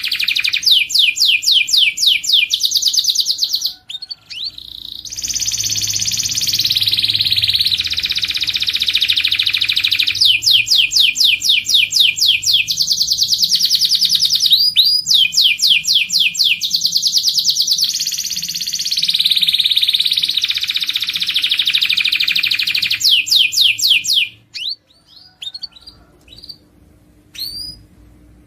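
Canary singing: a long song of fast rolling trills and sweeping phrases, which breaks off about 24 seconds in, leaving a few short, separate chirps.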